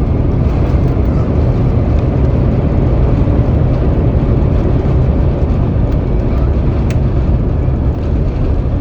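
Loud, steady rumble inside the passenger cabin of an Airbus A350 airliner during landing: engine and airflow noise, heavy in the low end, with one short tick about seven seconds in.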